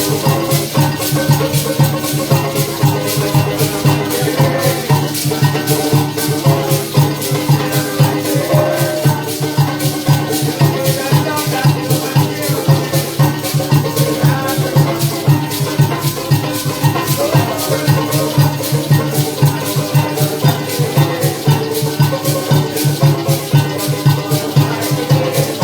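Live parang music: maracas shaking a quick, steady beat over a strong bass line and pitched instruments playing a melody.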